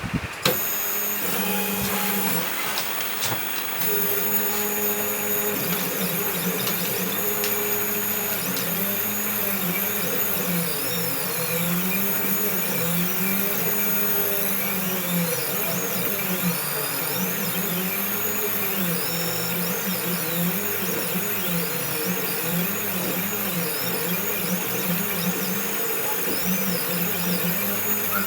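CNC machine running a cut: a steady motor hum and whine under stepper motors whirring in pitch sweeps that rise and fall over and over as the axes speed up and slow down along the design's curves. It starts suddenly just after the beginning.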